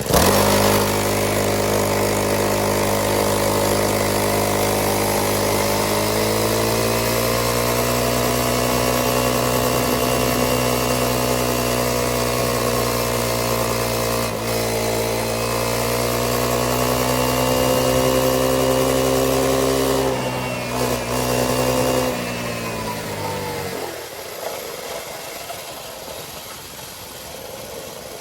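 Small gasoline engine running steadily. It speeds up slightly about a quarter of the way in, then slows and dies away near the end.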